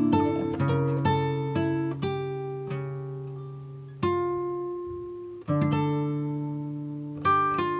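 Background music: acoustic guitar, plucked notes and strummed chords left to ring out.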